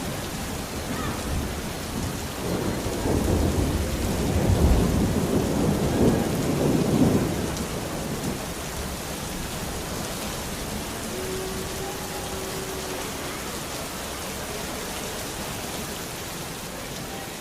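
Steady rain falling, with a long rumble of thunder that builds about two seconds in, is loudest around five to seven seconds in, and fades out by about eight seconds.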